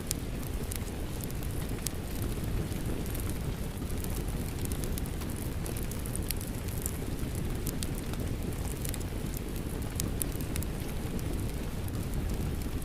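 Wood fire crackling, with frequent sharp irregular pops, over a steady rushing sound of falling rain.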